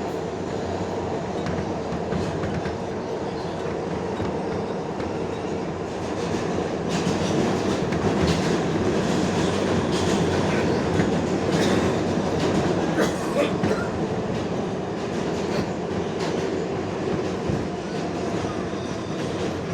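New York City R142A subway car running at speed through the tunnel, heard from inside the car: a steady rumble with the wheels clicking over rail joints.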